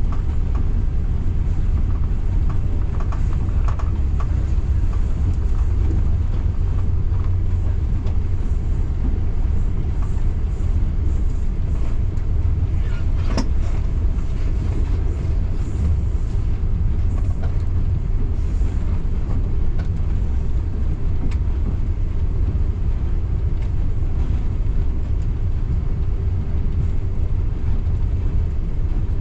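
Steady low rumble of a moving local passenger train, heard from inside the carriage, with faint clicks and one sharper click about thirteen seconds in.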